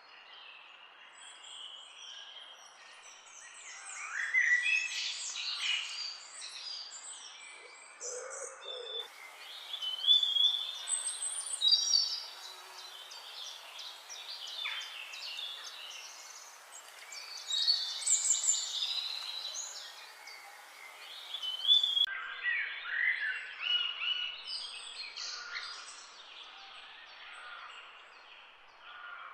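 Several small birds chirping and twittering: many short, overlapping calls and trills, high-pitched, in louder flurries every few seconds.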